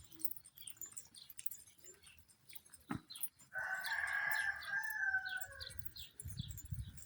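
A rooster crowing once, a call of about two seconds starting around halfway and dropping slightly at the end, with small birds chirping repeatedly throughout.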